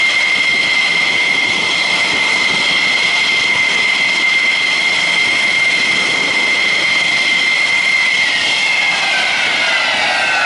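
F-16 fighter's jet engine giving a loud, steady high-pitched whine. Near the end the whine slides down in pitch as the jet moves past or spools down.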